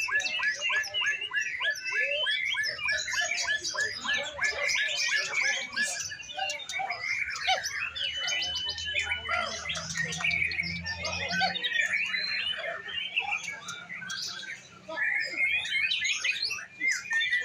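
Many songbirds singing at once: a dense chorus of overlapping rapid chirps, whistles and trills, with no single bird standing out.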